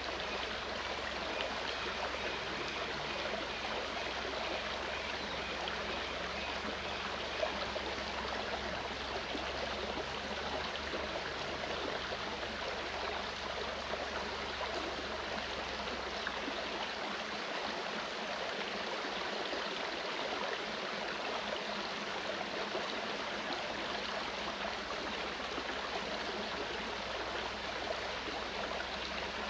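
Clear mountain stream flowing with a steady, even rush of water.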